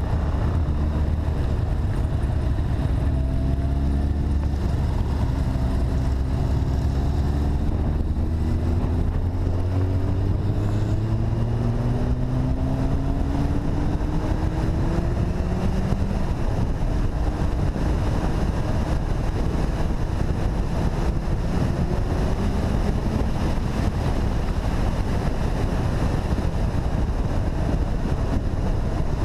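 Motorcycle engine pulling steadily, its pitch rising slowly over the first half, under heavy wind and road rush. Later the engine tone sinks into the wind noise.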